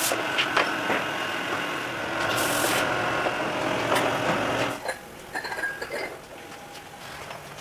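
A motorised machine running steadily with a few sharp knocks, dropping away about five seconds in and leaving fainter light clinks.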